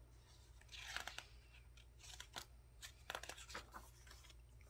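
Faint rustling and light taps of a picture book's page being handled and turned, in a few short spells about a second apart.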